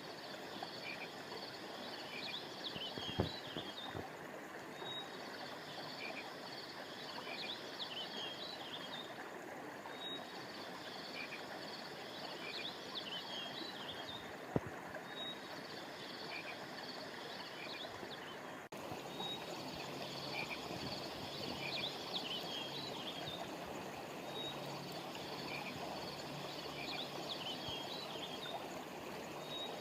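Stream water flowing steadily, with frogs chirping in high clusters that repeat every few seconds. Two sharp clicks stand out, one a few seconds in and one about halfway through.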